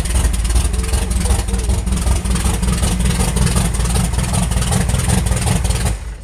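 Big-block 454 V8 of an American drag car running at idle with a loud, pulsing low rumble, which drops away near the end.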